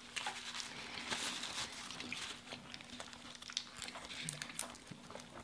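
Close-miked eating sounds from a burger and fries: soft chewing with small irregular crackles and clicks, over a faint steady hum.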